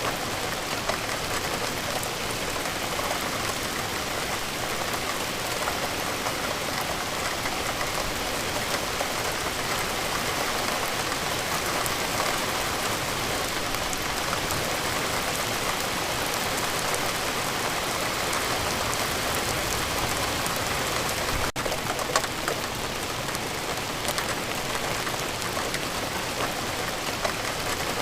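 Steady rain falling, an even hiss of many drops striking a surface. There is a momentary break in the sound about three-quarters of the way through.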